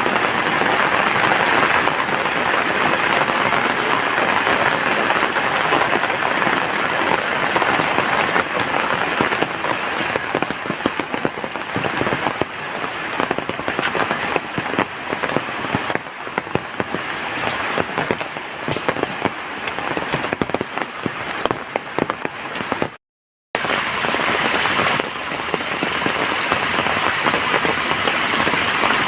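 Steady rain falling, with many individual drops pattering on nearby surfaces. The sound cuts out completely for about half a second near the end, then resumes.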